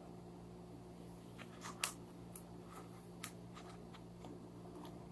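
Faint handling noise: a few small, sharp clicks and ticks, the loudest about two seconds in, over a steady low hum.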